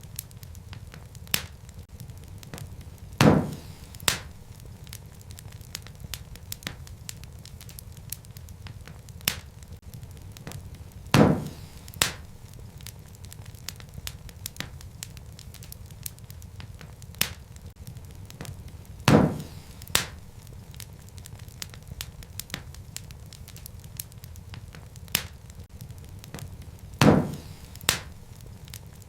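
Wood fire crackling steadily over a low rumble, with many small ticks. A loud pop about every eight seconds is followed by a smaller one a moment later.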